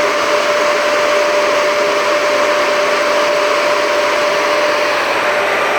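Industrial axial fan running at steady speed: a loud, even rush of air with a steady hum-like tone running through it.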